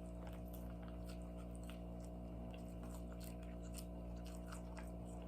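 A person chewing a bite of a chicken sandwich, with soft irregular wet mouth clicks. Underneath runs a steady low hum with several fixed tones.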